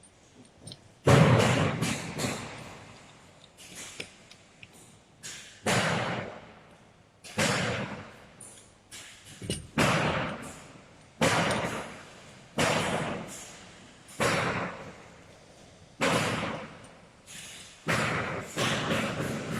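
A series of sharp knocks on the tool's parts, about one every one and a half seconds, each dying away over about a second; the first is the loudest.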